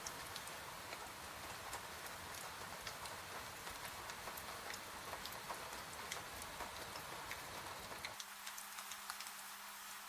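Steady rain hiss with scattered sharp crackles and ticks, typical of a log fire burning. About eight seconds in, the low rumble drops away and a faint steady hum comes in.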